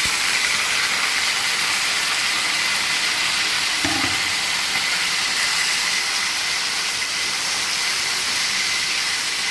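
Marinated chicken pieces sizzling in hot oil in a kadhai with cumin and red chillies: a steady, loud hiss. A brief low knock comes about four seconds in.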